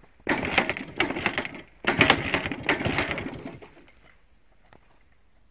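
Minsk two-stroke motorcycle engine being kicked over in the cold, turning over in two short bursts of rapid clatter without catching.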